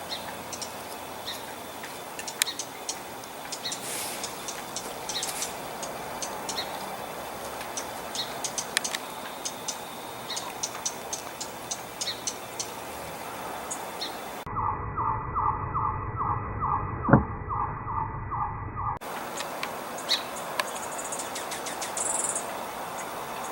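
Small birds giving short, high chirps again and again over a steady background hiss. About two-thirds of the way in, a muffled stretch of about four seconds carries a pulsing tone, about three pulses a second, and one sharp click.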